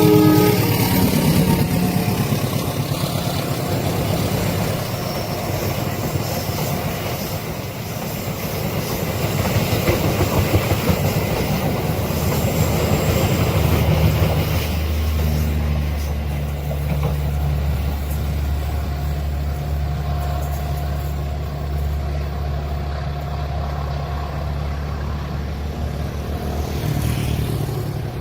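A train passing a railway level crossing, its wheels and wagons rumbling steadily over the rails. About halfway through, the sound settles into a steady low engine hum.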